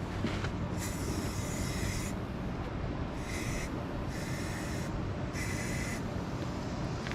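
Paint spraying onto a jon boat's aluminium hull in four short bursts of hiss, the first about a second in and lasting a little over a second, the others shorter.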